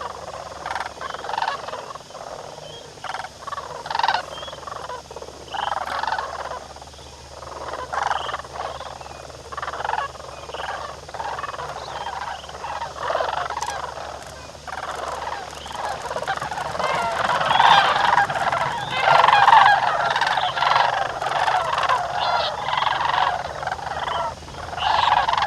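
A large flock of birds calling, with many overlapping calls that swell louder and denser about two-thirds of the way through.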